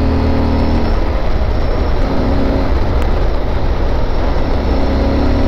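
Yamaha Super Ténéré 1200's parallel-twin engine running on the move, under a heavy rush of wind noise. Its steady engine note falls away about a second in, comes back briefly around two seconds, and returns strongly near the end.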